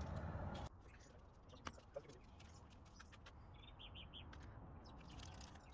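Near silence with faint background hiss that drops away about half a second in. A couple of soft clicks follow, then a bird chirps faintly four times in quick succession near the middle.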